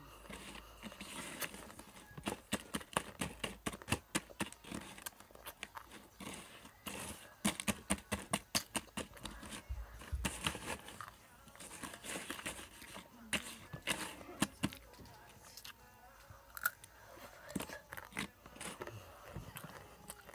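Close-up mukbang eating sounds: crunchy food bitten and chewed near the microphone, in dense runs of crisp crunches with short lulls between them.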